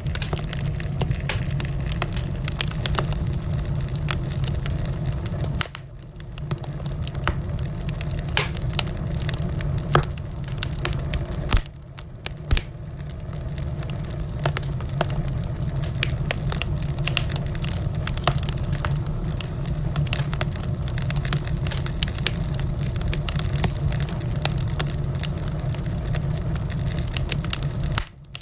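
Wood fire in a fireplace crackling, with a steady low rumble of the flames and frequent sharp pops, a few louder ones around ten and twelve seconds in. The sound drops away briefly a few times.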